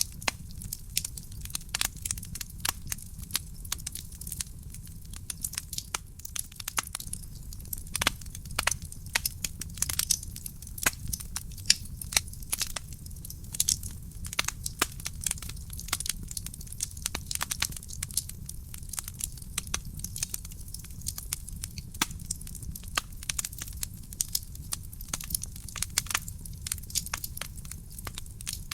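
Real wood fire burning in a fireplace, crackling with dense, irregular sharp pops and snaps over a steady low rumble.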